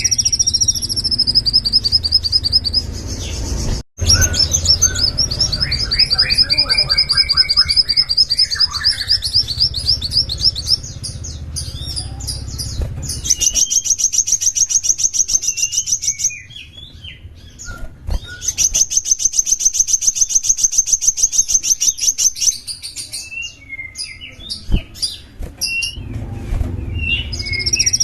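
Small songbird singing long, fast, high-pitched trills of repeated notes, each trill lasting a few seconds, with a lower chattering phrase between them. The sound cuts out for an instant about four seconds in.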